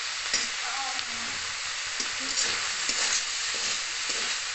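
Prawns sizzling in hot oil in a kadai, stirred with a metal spatula that scrapes against the pan several times. Their released water has cooked off, so they are now dry-frying.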